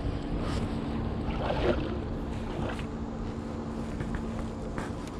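Kayak paddling on a river: soft paddle strokes in the water, with wind rumbling on the microphone and a faint steady hum underneath.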